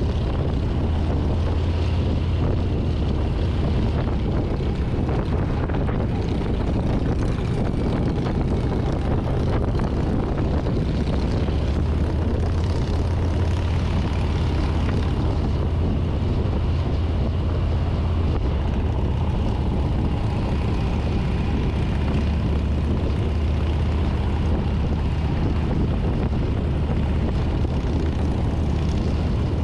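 2024 Harley-Davidson Street Bob's Milwaukee-Eight 114 V-twin running at a steady cruise, with wind and road noise, heard close from the handlebars.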